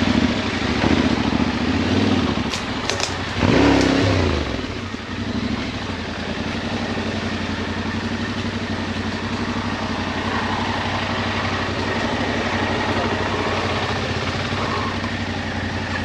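Yamaha Ténéré 700's parallel-twin engine running on a dirt trail. It revs up with a burst of throttle about three and a half seconds in, falls back, then runs steadily at low revs. A few sharp clicks come just before the rev.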